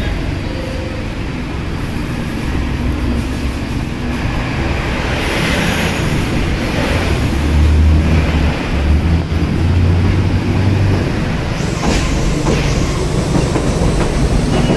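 Elevated subway train passing overhead: a heavy low rumble that builds to its loudest midway, then a few sharp clacks from the wheels on the track.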